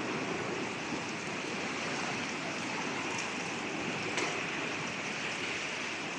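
Strong wind blowing, a steady rushing noise, with a faint click about four seconds in.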